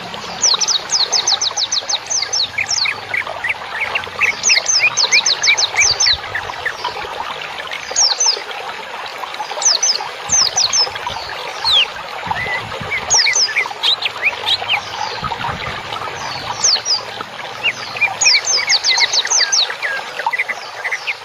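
Dense chorus of small songbirds chirping: repeated quick runs of high, falling chirps every second or two over a continuous background of many birds chattering.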